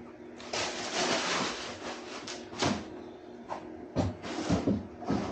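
Packaging rustling and knocking as the new exhaust pipes are handled, with a few sharp clacks.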